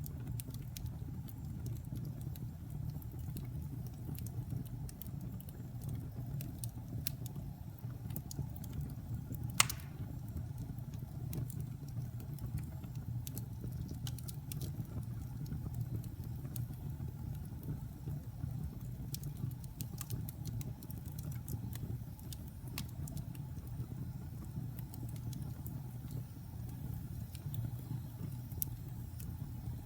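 Log fire burning in a fireplace: a steady low rumble with scattered sharp crackles, and one louder pop just under ten seconds in.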